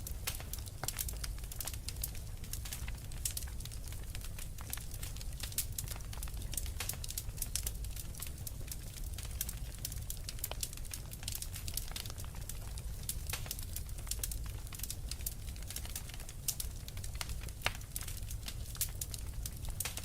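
Wood fire crackling: a steady stream of small snaps and pops, a few of them sharper and louder, over a low steady rumble.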